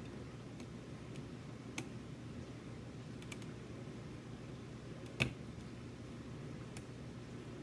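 Sparse small clicks and ticks of lock picks working inside a Sargent Signature lock cylinder, a handful of them, with the sharpest about five seconds in, over a steady low room hum.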